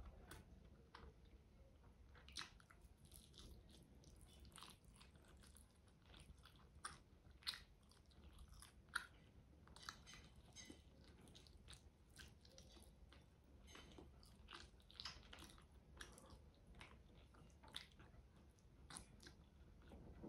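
A person chewing and biting into braised chicken adobo drumstick meat and rice, eaten by hand close to the microphone. Quiet mouth sounds with many small, sharp smacks and clicks scattered irregularly.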